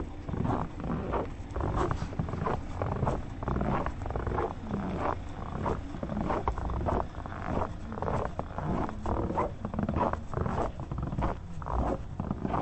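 Footsteps crunching and squeaking in freshly fallen snow at a steady walking pace.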